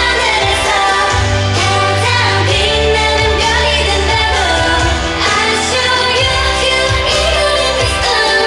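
K-pop girl-group song performed on stage: female vocals sung over a pop backing track with a heavy bass line that drops out briefly twice.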